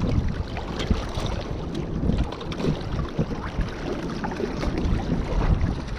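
Wind buffeting the microphone, a steady low rumble with scattered short knocks.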